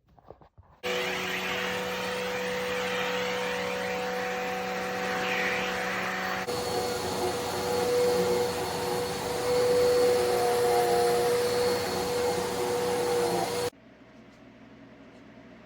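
Corded bagged vacuum cleaner running with a steady motor whine. Its tone shifts abruptly about halfway through, and it stops suddenly near the end.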